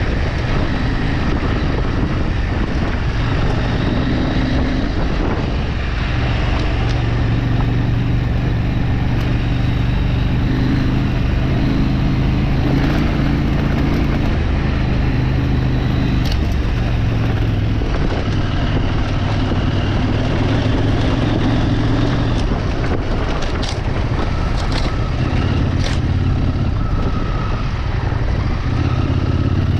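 Off-road vehicle engine running under way, its pitch shifting up and down every few seconds as the revs change, over a constant low rumble. A few sharp knocks or rattles come in the second half.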